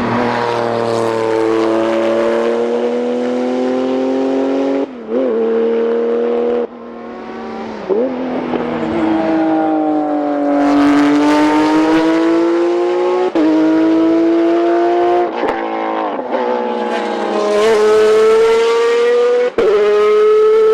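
GT race car engines at high revs on track. Their pitch climbs slowly and is broken off sharply every few seconds.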